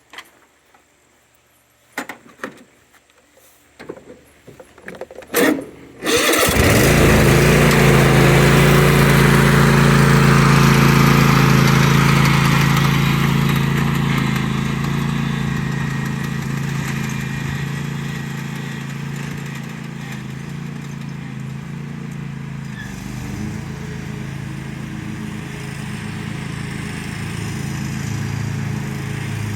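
A few scattered clicks, then about six seconds in a Craftsman lawn tractor's engine starts abruptly and runs steadily. It is loudest for the first several seconds, then gets gradually quieter and settles at a lower steady level, rising slightly near the end.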